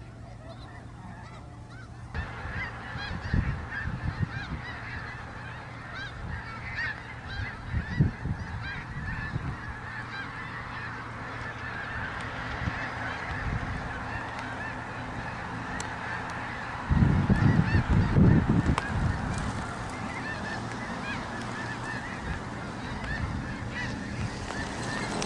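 A large flock of snow geese calling, many honks overlapping in a continuous chatter that grows louder about two seconds in. Bursts of low rumbling thumps break in now and then, the loudest about two-thirds of the way through.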